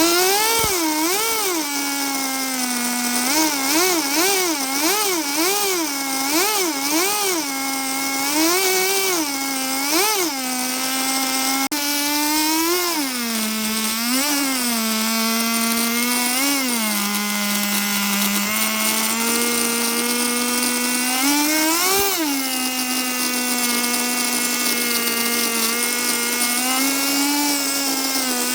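Small two-stroke nitro engine of a MegaTech P190 RC car running. It is blipped up and down in quick repeated revs, then settles into a steady idle with a couple of single revs near the end.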